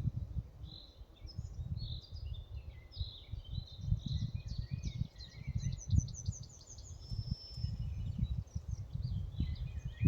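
Songbirds calling and singing in a forest, with short chirps throughout and a fast trill about six to seven seconds in, over a low rumble of wind gusting on the microphone.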